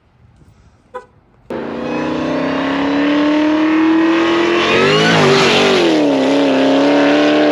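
Dodge Hemi V8 engine coming in abruptly about a second and a half in and running fast, with one rev that rises and falls in pitch around the middle before it settles back.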